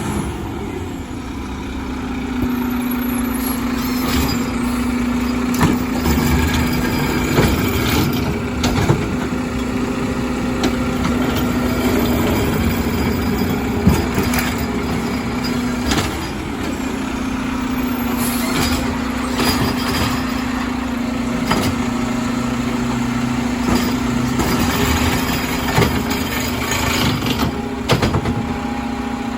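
Garbage truck working: engine running with a steady whine and repeated clanks and knocks.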